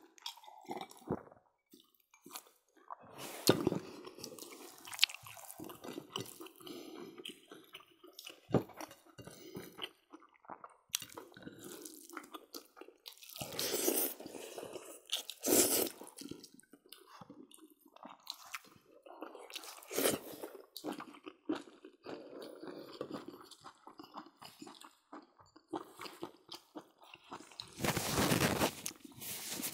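Close-up chewing and lip-smacking of several people eating rice and pork curry by hand, with many short wet clicks and smacks. About 28 seconds in, a louder blast of noise lasting about a second, as a man blows his nose into a tissue.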